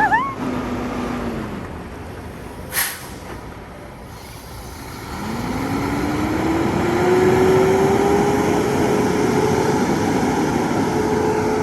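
Semi truck's diesel engine and air brakes while backing in: a short sharp air-brake hiss about three seconds in, then the engine revs rise from about five seconds and hold as the truck moves.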